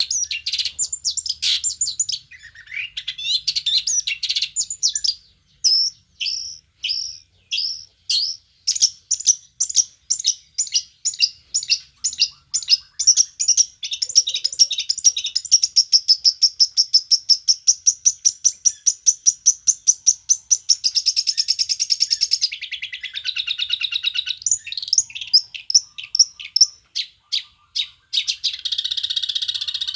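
Long-tailed shrike (cendet) singing: long series of sharp high repeated notes that quicken into a fast, even run, broken by harsh rasping chatter about two-thirds of the way through and again near the end.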